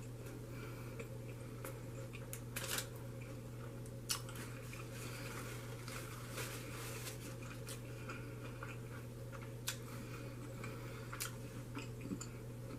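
A person chewing and biting food close to the microphone, with scattered short wet clicks and crunches, over a steady low hum.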